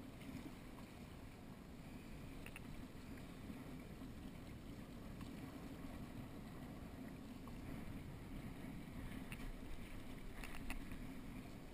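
Steady rush of wind and water around a small sailing catboat under way, with a few light clicks about two and a half seconds in and again near the end.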